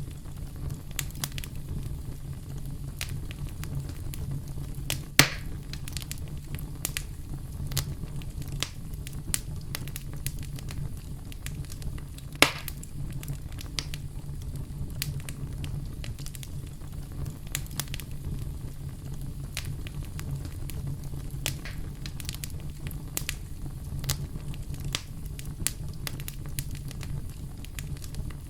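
Campfire crackling: a steady low rumble of burning wood with frequent sharp snaps and pops. Two louder pops stand out, about five seconds in and again about twelve seconds in.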